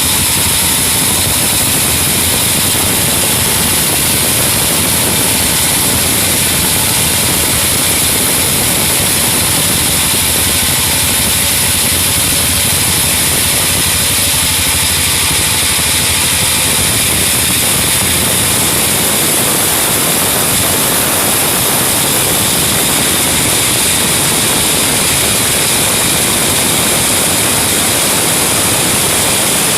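Band sawmill running steadily: a continuous engine drone under a strong high hiss of the band saw blade cutting sengon (albasia) wood.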